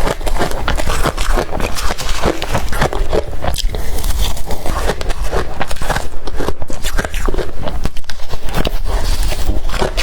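Blender-crushed ice being bitten and chewed close to the microphone: a rapid, unbroken run of crunches.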